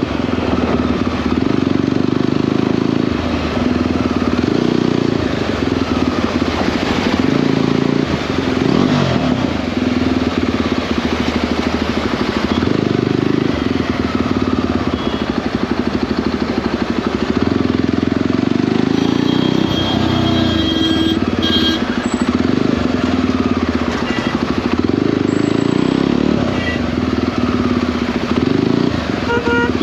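Jawa 42 motorcycle's single-cylinder engine running steadily at riding speed, over a continuous rush of road and air noise. A short burst of high-pitched tones comes about twenty seconds in.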